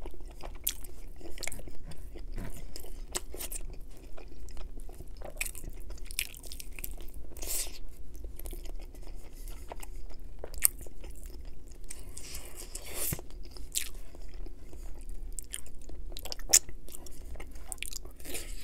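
Close-miked chewing and biting of rotisserie chicken: wet, irregular mouth smacks and crunches as pieces of meat and skin are eaten off the bone.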